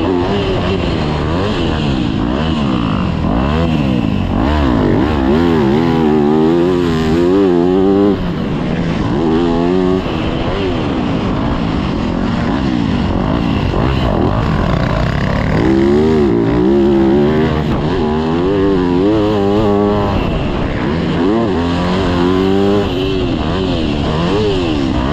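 Yamaha YZ250F four-stroke single-cylinder dirt bike engine being ridden hard, revving up and backing off again and again, its pitch climbing and falling every second or two.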